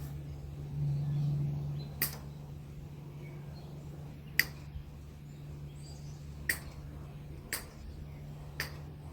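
Side cutters snipping chicken wire: about five sharp clicks, one every second or two, the loudest about four seconds in, over a steady low hum.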